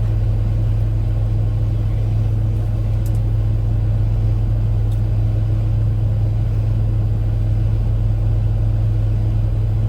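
Truck engine idling, a steady low hum heard from inside the cab.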